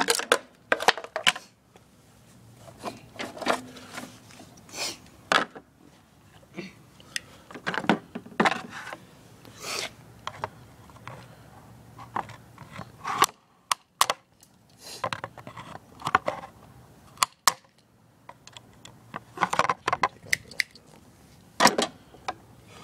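Scattered clinks, taps and scrapes of hand tools and small metal parts being handled, with a faint low hum in places.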